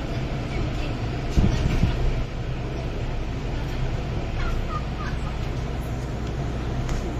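Cabin noise of an MTR M-Train: a steady low hum of the traction equipment and running gear as the train draws alongside a station platform. There are a couple of thumps about a second and a half in and a few short high chirps a little after the middle.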